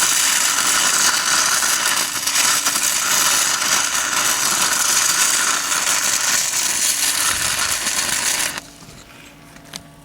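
Stick welding arc from a 6010 electrode at 85 amps on a Miller Syncrowave 210: a steady, loud crackle and hiss that cuts off suddenly about eight and a half seconds in as the arc is broken. A faint click follows near the end.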